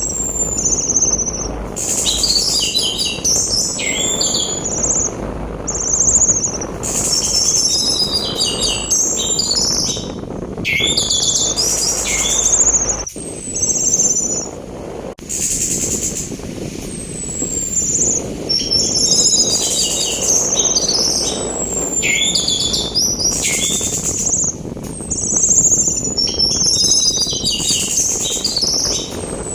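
Orange-headed thrush (anis merah) singing in rapid, repeated phrases of high whistles that slide downward and quick chattering notes, over a steady rush of wind and sea noise.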